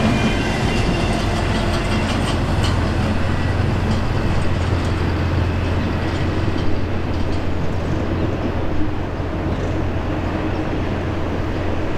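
Tail end of a double-stack intermodal container train rolling past, the wheels clicking over the rail for the first few seconds, then a steady low rumble as the train moves away down the track.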